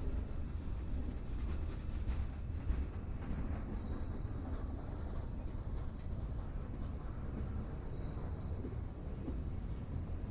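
A train rolling by: a steady low rumble with a faint rattle above it.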